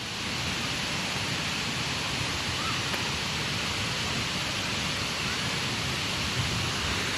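Large waterfall pouring down in full flow: a strong, steady rush of falling water and spray.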